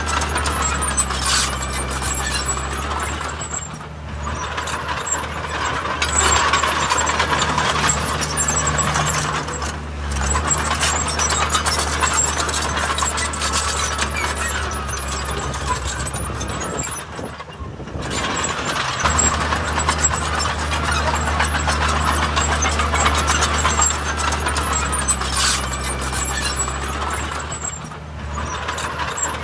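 Heavy diesel construction machinery working: a steady low engine drone with continuous metallic clanking and rattling, dipping briefly a few times.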